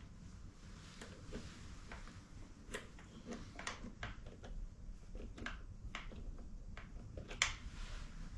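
Scattered light clicks and taps of tools and small parts being handled during motorcycle suspension work, with one louder knock about seven seconds in.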